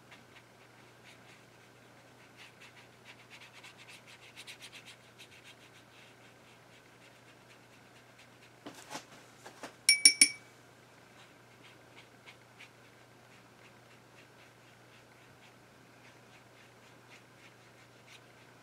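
A paintbrush scratching and dabbing on paper, with a quick run of light ticks about four seconds in. About ten seconds in, a few sharp clinks with a brief ring as the brush is knocked against the rim of the water jar while rinsing.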